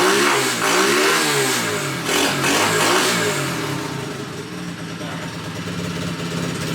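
Engine of a 125cc Chinese dirt bike revved several times, the pitch rising and falling with each blip, then settling to a steady idle over the second half.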